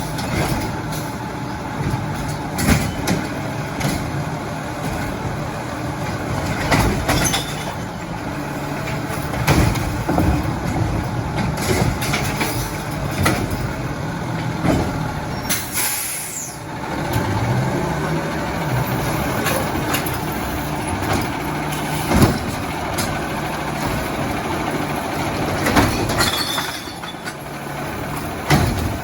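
Diesel engine of an Autocar ACX garbage truck running, with repeated knocks and clanks over it. A short hiss of air brakes comes a little past halfway.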